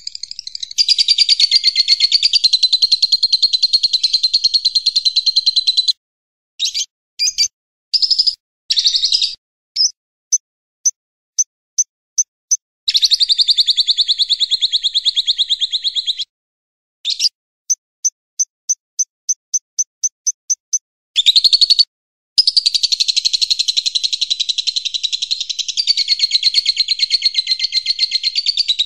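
Recorded songs of cililin, lovebird and siri-siri mixed into one masteran track. Long, rapid, chattering trills alternate with runs of short, evenly spaced high notes, a few a second.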